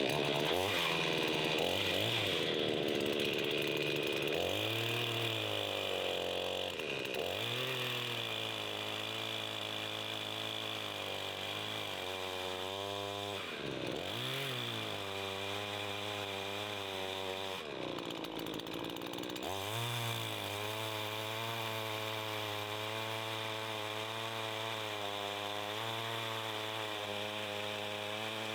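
Chainsaw engine running. Its pitch dips and recovers several times in the first twenty seconds as it is throttled or loaded in the cut, then it runs steady.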